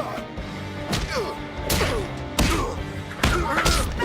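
Fight-scene sound effects: about half a dozen sharp thuds and whacks of blows landing, over dramatic background music.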